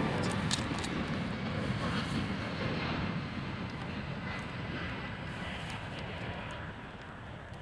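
An airliner's engines rumbling as it passes, fading steadily as it moves away.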